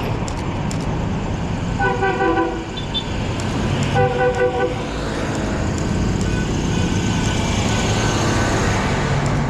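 Truck air horns sounding two short blasts, about two and four seconds in, each of several tones at once, over the steady rumble of truck engines.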